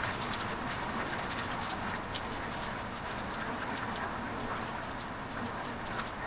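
Heavy rain pouring steadily, with a dense patter of sharp drop clicks close by.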